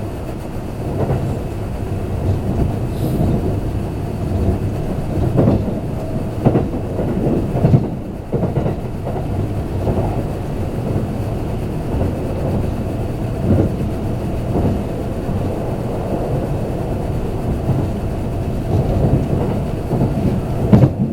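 Kintetsu limited express train running at speed, heard from inside the passenger car: a steady rumble of wheels on rail with irregular knocks as the wheels pass over rail joints.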